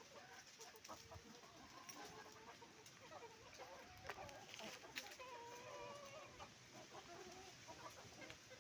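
Several chickens clucking softly and continuously as a flock feeds, with many short overlapping calls and a few sharp clicks.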